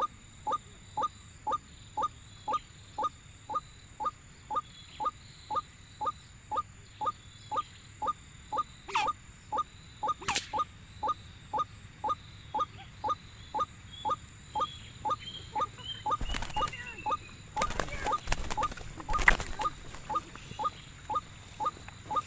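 Repeated short 'kwak' calls of a white-breasted waterhen (ruak-ruak), about two a second in an even rhythm. A couple of sharp knocks come near the middle, and rustling and knocking come in the last few seconds.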